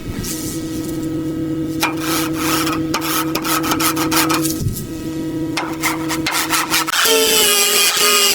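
A power tool running steadily with a rasping, scraping sound and scattered clicks. It stops briefly about halfway, then resumes. About a second before the end, a higher-pitched power tool starts.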